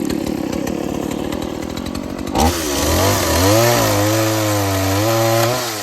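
Chainsaw running at low speed, then revved up about two seconds in and held at high speed for about three seconds while cutting a log, its pitch sagging and recovering under load, before dropping back near the end.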